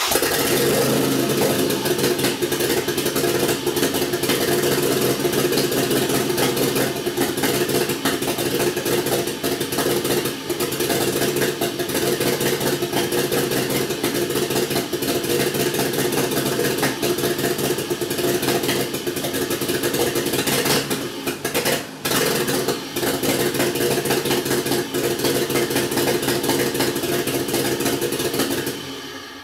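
Toyota 1JZ 2.5-litre inline-six running unevenly on its first start, misfiring. The level dips briefly twice about two-thirds of the way through, and the sound dies away near the end.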